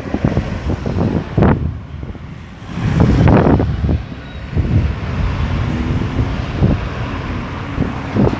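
Road traffic passing on a busy roundabout, cars and heavier vehicles going by, with wind buffeting the microphone. Two louder surges come about one and a half seconds in and again around three seconds in, the second the loudest.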